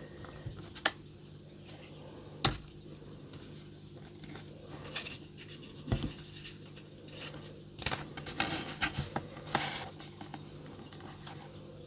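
Light taps, clicks and scraping as card-making stamps and tools are handled on a desk, with sharper knocks about one, two and a half and six seconds in and a run of small clicks near the end. A faint steady hum lies underneath.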